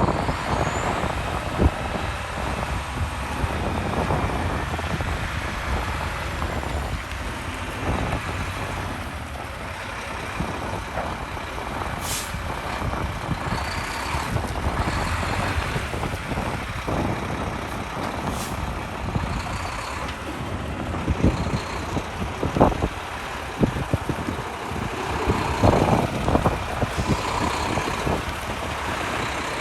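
Dump truck's diesel engine running steadily, with two short air hisses about 12 and 18 seconds in.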